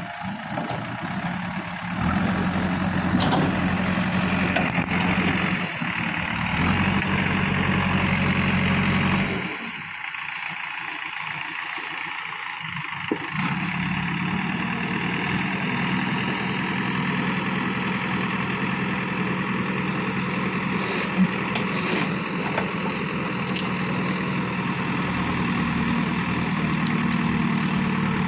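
Heavy diesel engine running steadily. It drops in loudness for a few seconds about ten seconds in, then runs on evenly.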